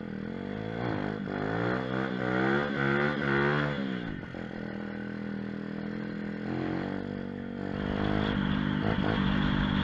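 Small single-cylinder engine of a mini moto / pit bike revving up under acceleration, dropping back about four seconds in, running steadily, then picking up again near the end.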